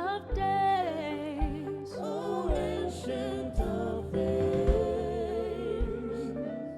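Gospel worship song: sung vocals with vibrato over a band, with a low drum beat about once a second.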